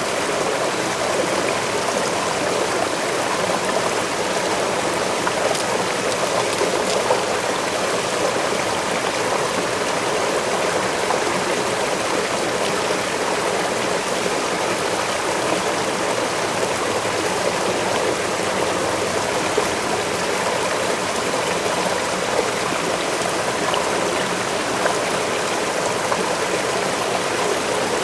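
Waterfall and stream water rushing in a steady, even wash, with no breaks or single events.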